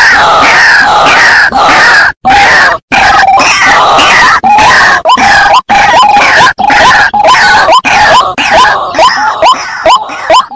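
White-breasted waterhen (ruak-ruak) calling loudly over and over, about two to three calls a second. Near the end the calls thin into short, separate rising notes with brief silences between them.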